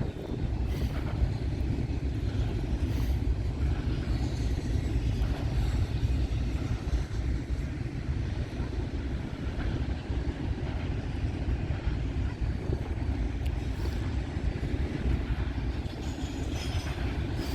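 Freight train rolling past on the rails, a steady low rumble of passing cars.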